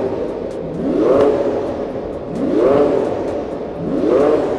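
Twin-turbocharged V12 engine of a hypercar engineering prototype being blipped from idle: three quick revs about a second and a half apart, each rising in pitch and falling back. It sounds chunky.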